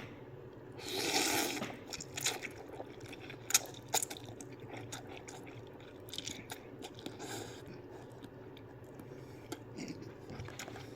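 A person eating ramen noodles: wet chewing and small mouth clicks, with a louder breathy slurp or sniff about a second in.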